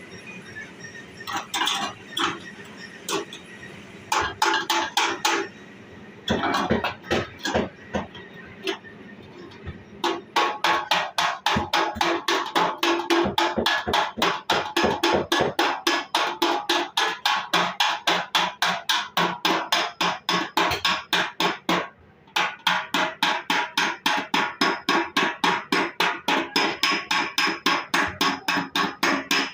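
Hammer beating the sheet metal of a car's body panel: a few scattered blows, then a steady run of quick strikes at about four a second, with a brief pause about three-quarters of the way through.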